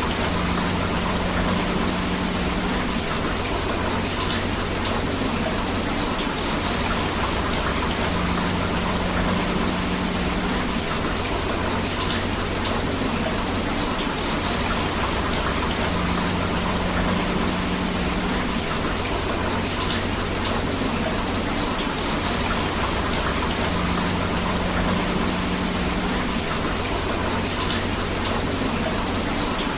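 Steady rain together with a flowing river: an even, unbroken hiss and wash of water. A faint low hum comes and goes about every eight seconds.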